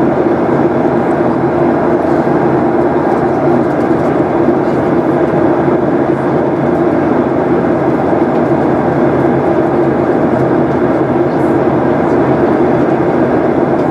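Steady cabin noise of a Boeing 737-800 in flight: the CFM56 turbofan engines and rushing airflow make an even roar with a steady low hum.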